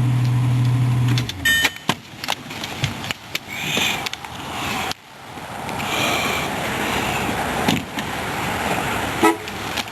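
2006 Ford Mustang engine idling, then switched off about a second in. Clicks and a few short electronic tones follow.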